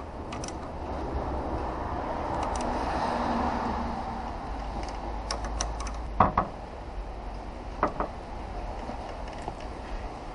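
Scattered light clicks and two sharper knocks, about six and eight seconds in, of transmission parts and tools being handled on a workbench, over a steady background hum.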